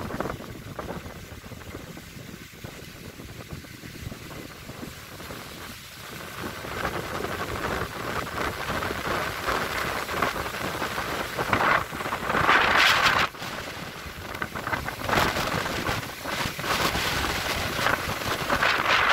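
Strong gusty wind with no rain, rising about six seconds in and coming in loud surges, the loudest some twelve to thirteen seconds in.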